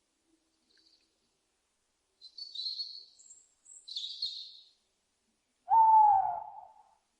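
Owl calling: two short, high, raspy screeches, then a louder hoot about a second long that dips slightly in pitch.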